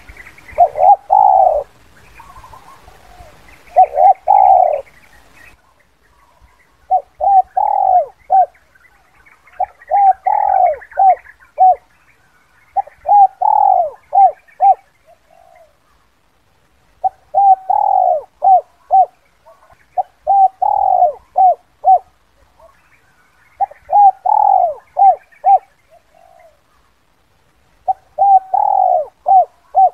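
Spotted dove cooing in its 'kuk 2' lure-call style: a short phrase of several coos, repeated roughly every three seconds, used to draw wild doves down.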